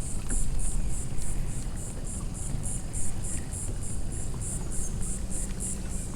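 Insects chirping, a high-pitched pulsing at about four pulses a second, over a low rumble.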